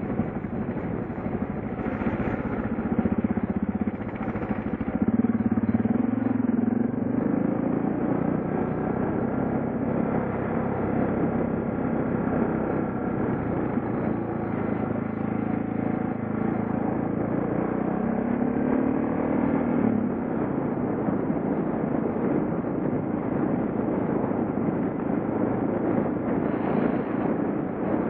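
Suzuki DR650's single-cylinder four-stroke engine running as the bike is ridden along a road, with a steady rush of noise behind it. The revs climb and ease off a couple of times, at about four seconds in and again just before twenty seconds.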